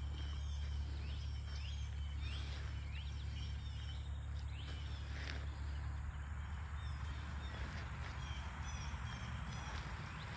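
Early-morning birdsong in the country: several birds calling with many short chirps and quick rising notes, over a steady low hum.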